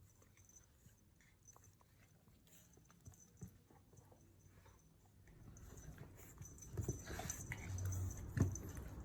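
A pug puppy and an Akita scuffling as the puppy play-bites: faint small clicks at first, then louder rustling and thumps in the second half.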